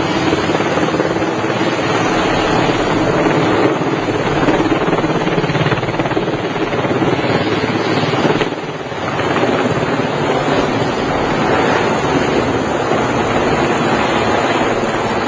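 Helicopter running close by during a lift, a loud steady rotor noise with a fast flutter, dipping briefly a little past halfway.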